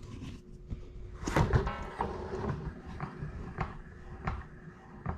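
Metal parts of a mini bike wheel and hub being handled while checking whether the hub is bent: scattered knocks and clicks, with a louder rattling scrape about a second and a half in.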